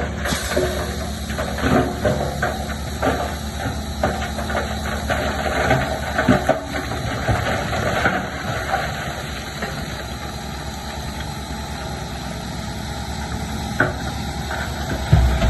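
Heavy construction machine's diesel engine running steadily, with frequent clanks and rattles in the first half and a heavier low thud near the end.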